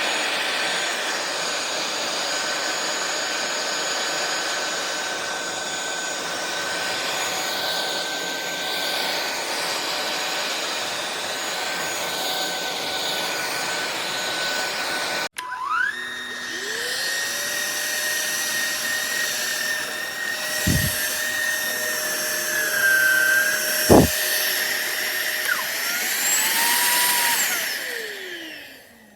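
Cordless stick vacuum motor running with a steady whine. About halfway through it cuts off abruptly, then starts again and whines up to speed. It runs steadily with two sharp knocks, rises in pitch briefly near the end, and winds down as it is switched off.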